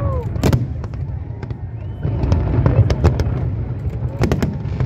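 Fireworks display: a continuous low rumble of bursting aerial shells with many sharp cracks and bangs. A quick cluster of loud cracks comes just past four seconds in.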